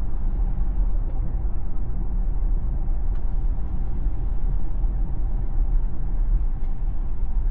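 Steady low road and tyre rumble of a Tesla electric car driving, with no engine sound.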